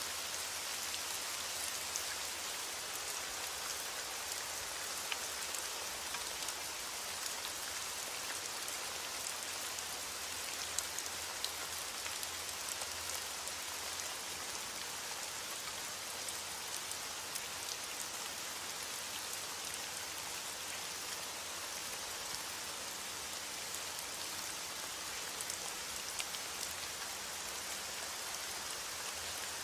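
Heavy rain falling steadily on window glass, a constant hiss with scattered sharp ticks of individual drops.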